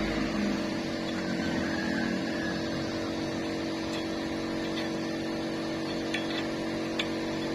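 A steady machine hum over a faint hiss, with a few faint clicks in the second half.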